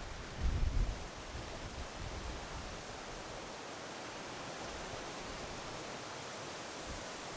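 Steady wash of ocean surf and wind, with wind buffeting the microphone in the first second.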